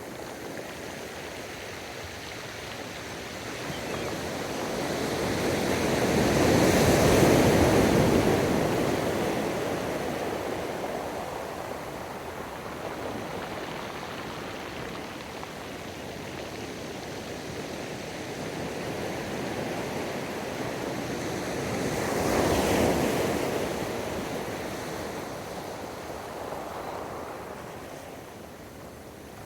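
Gentle ocean waves breaking and washing up the beach, a steady hiss of surf that swells twice: loudest about seven seconds in and again about twenty-two seconds in.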